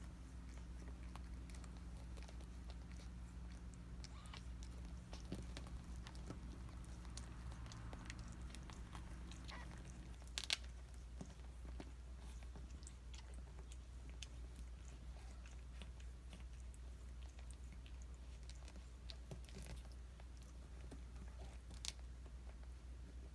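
Soft, scattered chewing and smacking mouth sounds of a cat, with a sharper click about ten seconds in and another near the end. A steady low hum underneath stops about ten seconds in.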